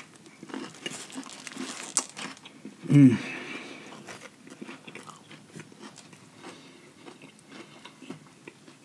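Close-up biting and chewing of a crispy fried chicken sandwich, with a sharp crunch about two seconds in. About three seconds in comes a short loud hummed 'mmm' from the eater, then quieter chewing.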